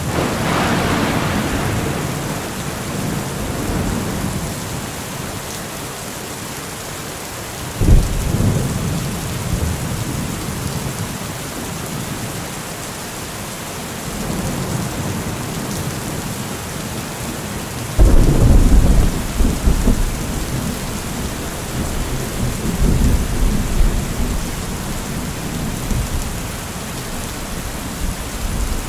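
Heavy rain falling steadily through a thunderstorm. Thunder rolls at the start, a sudden crack comes about eight seconds in, and a louder one about eighteen seconds in rumbles on for several seconds.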